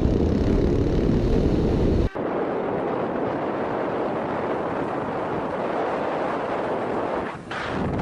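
Steady wind and road noise from a moving motorcycle, picked up by the rider's camera. It cuts off abruptly about two seconds in and gives way to a thinner stretch of the same kind of riding noise, with less low rumble.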